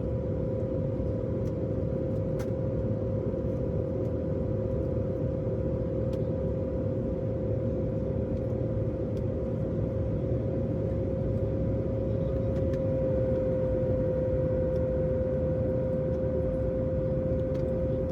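Jet airliner cabin noise in flight: a steady rumble of engines and airflow with a constant hum held on one pitch.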